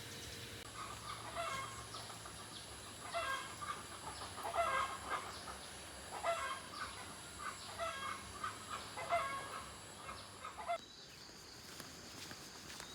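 Chickens clucking in short repeated calls, around nine of them, which stop abruptly near the end.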